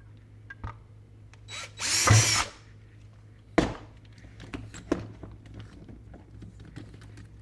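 Electric drill run in one short burst of under a second, followed by a sharp knock and several lighter clicks and taps of parts being handled on a bench.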